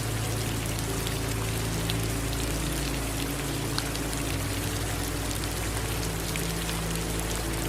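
Steady rain falling, with many scattered drops tapping sharply, over a low steady drone.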